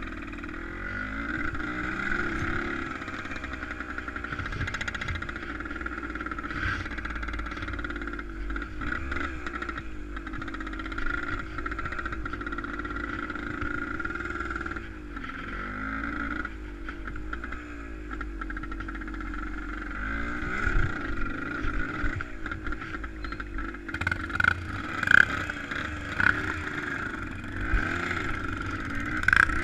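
A vehicle engine running steadily, its pitch rising and falling as it speeds up and eases off, with a few sharp knocks and clatter near the end.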